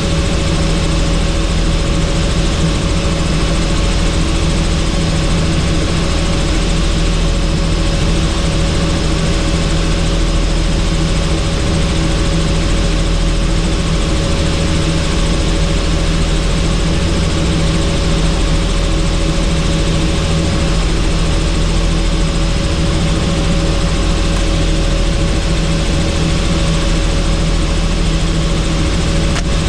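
Helicopter in flight heard from inside the doors-off cabin: a steady rotor and engine drone with a constant hum, under an even rush of wind noise.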